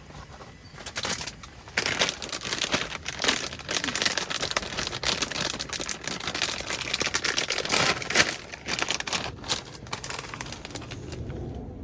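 Crinkling and rustling: a dense run of small crackles and clicks, starting about a second in and dying down near the end.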